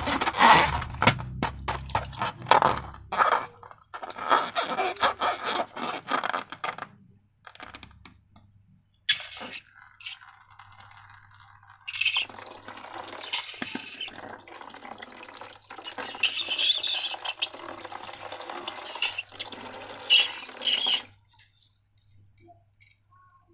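Slime being poured and worked by hand: wet, sticky crackling and squelching in several spells separated by short pauses, dying away near the end.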